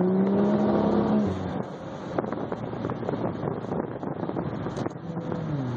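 Toyota 1JZ-GTE twin-turbo inline-six accelerating under load, its note climbing for about a second before the throttle is lifted and the engine drops away, leaving road and wind noise with scattered clicks. Near the end the engine note falls again.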